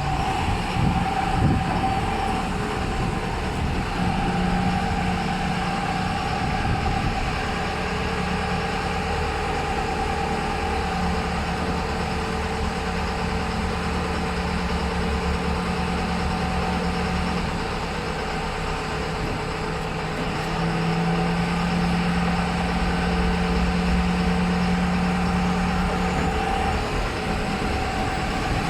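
Engine of a LUZUN LZ3500 self-loading concrete mixer running steadily, its pitch shifting slightly a few times.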